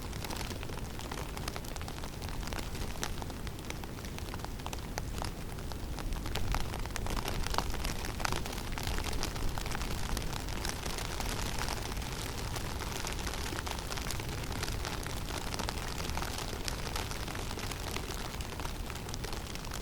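Snowstorm ambience in a forest: wind giving a steady low rumble that swells about six seconds in and eases off, with a scatter of fine ticks of snow pattering down.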